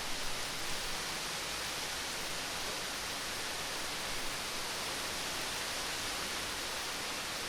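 Steady rain falling, an even hiss with no thunder in it, and a few slightly louder drops near the start.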